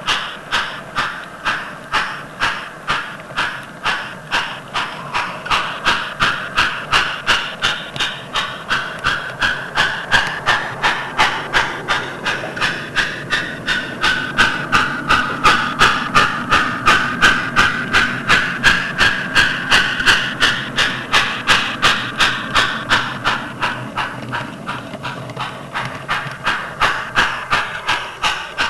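Sound-decoder steam exhaust from a Kato N scale FEF model locomotive fitted with a Tsunami decoder: a steady run of evenly spaced chuffs, about three a second, a little louder through the middle.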